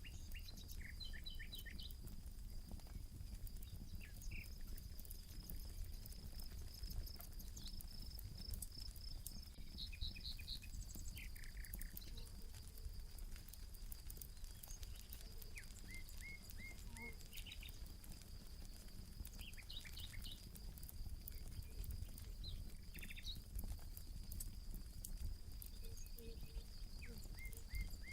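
Campfire crackling with frequent small pops, while birds call and chirp in short series of quick notes. A steady high-pitched tone runs underneath.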